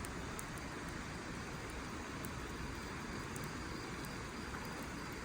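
Wood fire burning in a Snow Peak fire pit, giving off sparse faint crackles over a steady rushing background noise.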